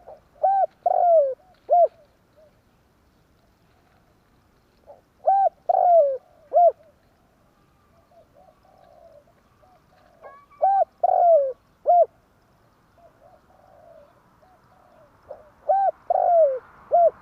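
Spotted dove cooing: four phrases of several low coos each, repeated about every five seconds, with softer coos in between.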